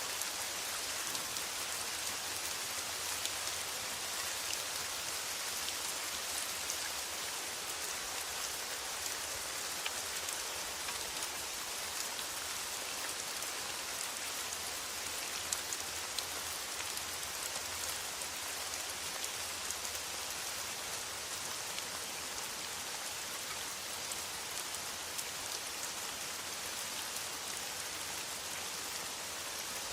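Steady rain falling on a metal roof: an even hiss with the ticks of single drops scattered through it.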